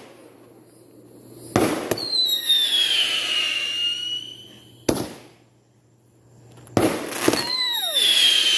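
Consumer fireworks going off: a sharp bang with a second crack right after, then a long whistle sliding gently down in pitch; a single bang about five seconds in; then two more bangs near the end, followed by another falling whistle.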